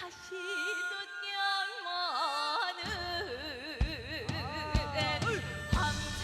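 A high voice singing in Korean traditional (gugak) style, with wide, wavering vibrato and sliding pitch bends. About three seconds in, a backing band joins with low bass and a drum beat about once a second.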